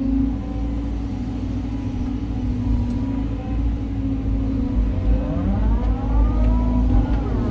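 Caterpillar 323 hydraulic excavator's diesel engine running steadily at work. From about five seconds in, a hydraulic whine rises and then falls in pitch as the hydraulics are worked.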